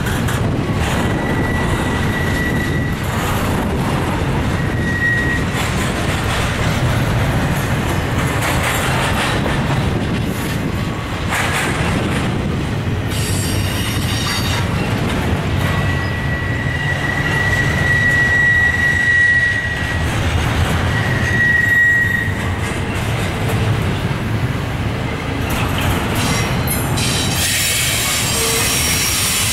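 Double-stack intermodal container cars of a Union Pacific freight train rolling past: a steady rumble of steel wheels on rail with scattered clicks. A thin, high wheel squeal comes and goes several times and is held longest through the middle.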